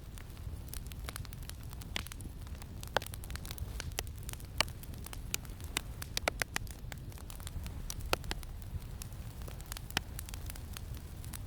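Campfire crackling, with many irregular sharp pops and snaps, over a steady low rumble of wind.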